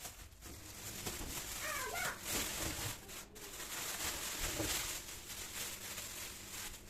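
A cat meowing: short pitched calls about two seconds in and again near five seconds, over a steady background hiss.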